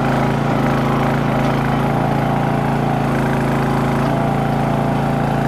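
Small engine of a towable backhoe running at a steady speed, an even hum with no change in pitch.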